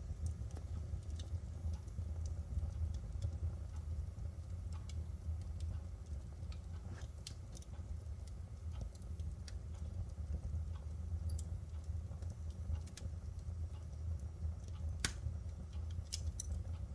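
Firewood burning, with scattered sharp crackles and pops over a steady low rumble; the loudest pop comes about fifteen seconds in.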